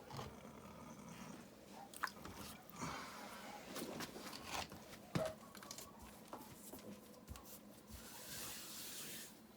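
Gritty scraping and crunching of wet mortar and river rock being worked by hand, with a few sharp knocks and a longer hissing scrape near the end.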